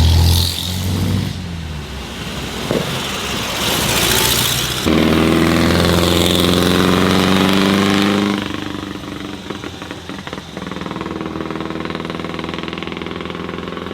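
A motor vehicle engine running. It is loud for about three seconds in the middle, then settles to steady idling.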